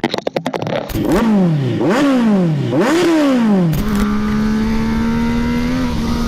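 Motorcycle engine revved three times, each rev rising quickly and falling away, then held at a steady speed with its pitch creeping slowly upward. A quick run of clicks comes in the first second.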